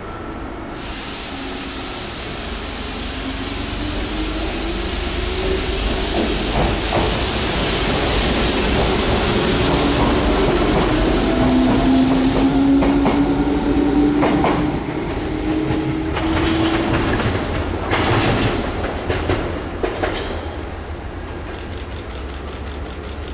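Enshu Railway electric train pulling out of the station: its motors whine, rising in pitch as it gathers speed and growing louder as the cars pass. Partway through, the wheels clack over rail joints.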